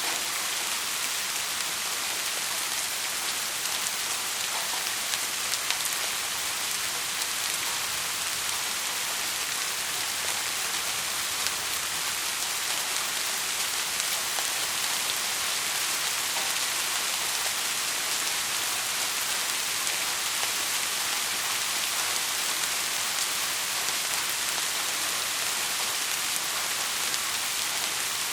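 Heavy rain falling steadily, a dense even hiss of drops on a surface with scattered individual drop ticks.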